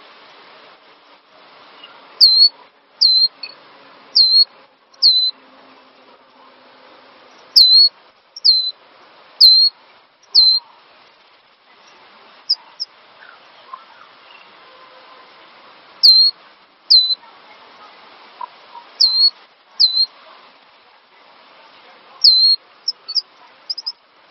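Cinereous tit (gelatik batu) calling: loud, sharp whistled notes in runs of two to four, a little under a second apart, with a quicker run of short notes near the end. A steady faint hiss lies behind.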